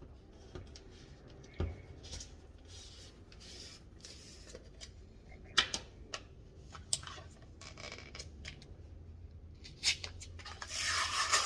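A plastic tub of pre-workout powder being opened and handled: a few sharp clicks and taps, then a rustling, scraping noise of the paper seal near the end.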